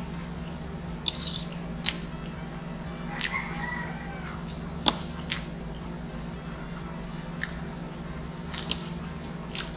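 Close-miked chewing of a mouthful of food, with wet mouth clicks and smacks and a few sharp clicks of a fork against the noodles and board, the strongest about five seconds in.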